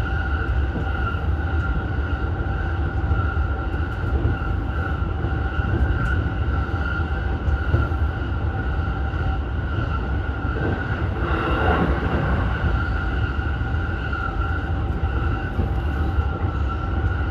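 Keihin-Tohoku Line electric commuter train running at speed between stations, heard from inside the car: a steady rumble of wheels on rails with a steady high whine over it, and a brief swell of noise about eleven seconds in.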